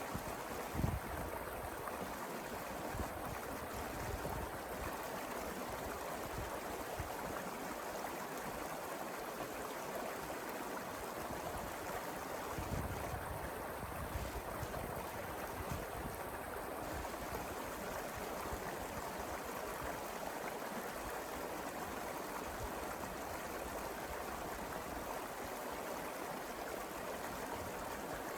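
Mountain river flowing steadily, an even rush of water, with a brief low thump about a second in and another about halfway through.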